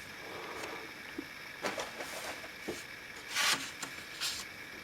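Soft handling sounds of small model-building parts being positioned on a workbench: a few light taps and short scrapes, the most distinct scrape about three and a half seconds in.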